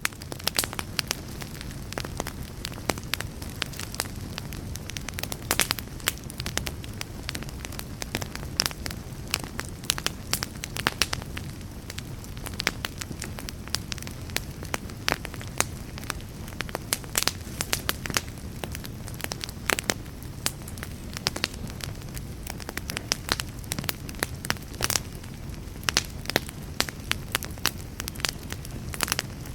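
A fire crackling and popping: a steady low rumble of flames with frequent irregular sharp pops and snaps.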